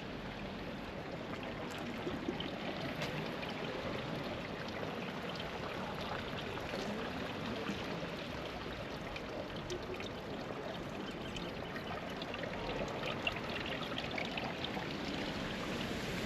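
Flowing river water: a steady rush of moving water with small splashes.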